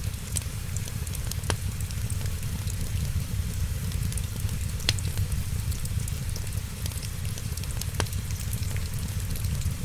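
Wood fire crackling over a steady hiss and low rumble, with many small ticks and a sharp pop about every three seconds.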